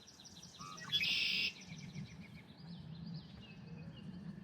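Birds singing in a marsh: many short, high, repeated chirps, with one loud buzzy trill about a second in.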